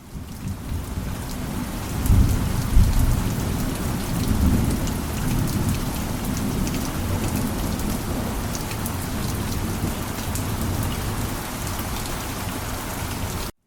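Heavy rain falling steadily, with many small drop ticks, and a low rumble of thunder swelling about two seconds in and easing off over the next few seconds. The sound fades in at the start and cuts out abruptly near the end.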